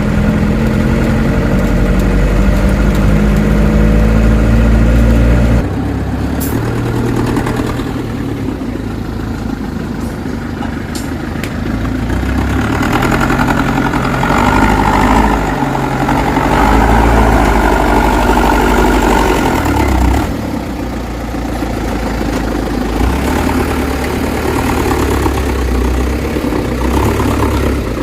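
Dump truck's diesel engine running, its note stepping up and down several times as engine speed changes, dropping noticeably about six seconds in and again about twenty seconds in.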